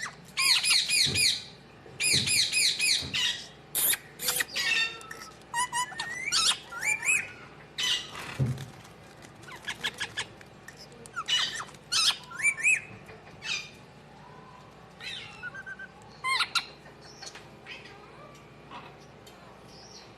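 Several birds chirping and calling in quick, harsh bursts of repeated high notes mixed with short whistles, busy at first and thinning out after about thirteen seconds.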